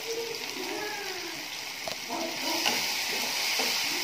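Chopped onions and tomatoes sizzling in hot oil in a kadai, with a spatula stirring and scraping the pan now and then. The sizzle grows louder a little over halfway through.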